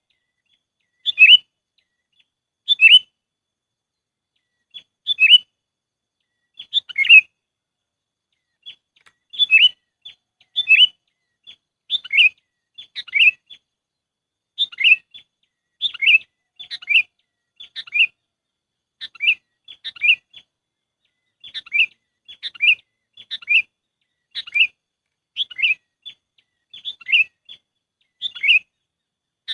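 Sooty-headed bulbul (kutilang) calling: short, bright chirped phrases repeated about once a second, coming closer together after the first few seconds, a bird-trapping lure call.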